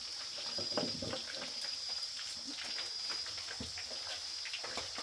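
Scattered light knocks and taps from handling cooked fish and utensils, the loudest about a second in, over a steady high insect drone.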